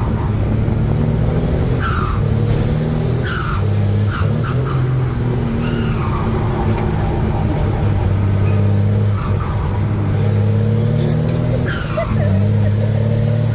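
Truck engine running under way, a steady low hum whose pitch steps up and down a few times, with a few short high falling squeaks, about two and three seconds in and again near the end.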